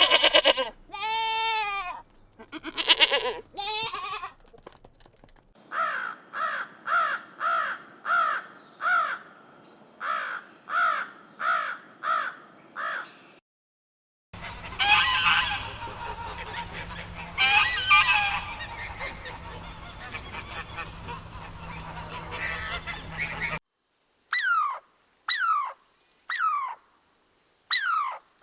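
A string of short animal-call clips, mostly honking fowl calls, goose-like. The longest stretch is a run of about a dozen honks, one or two a second. Later come a few calls over a steady background noise, then four calls that each fall sharply in pitch.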